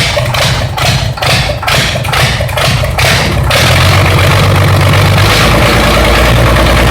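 Shacman truck engine running. For about the first three seconds it pulses unevenly, about three times a second, then it settles into a steady, even run with a low drone.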